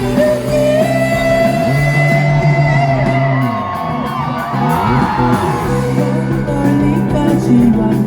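A live rock band plays an instrumental passage of held guitar and bass notes, with sliding, bending notes about halfway through. It is heard through a phone's microphone from the audience.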